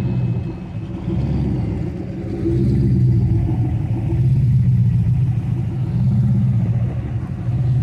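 Car engines rumbling, the deep sound swelling and easing several times, loudest a little past the middle.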